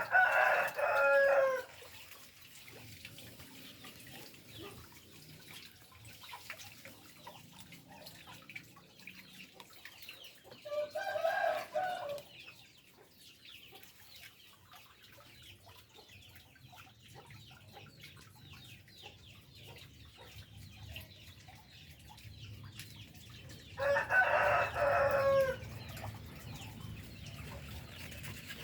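Rooster crowing three times: at the start, about eleven seconds in, and about twenty-four seconds in, each crow a second or two long.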